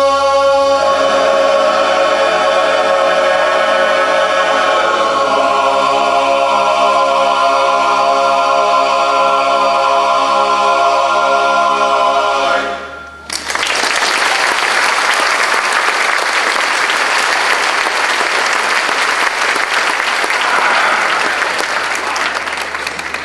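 Barbershop chorus singing a cappella in close harmony, holding long sustained chords that change twice before the song ends about halfway through. Audience applause follows at once and fades near the end.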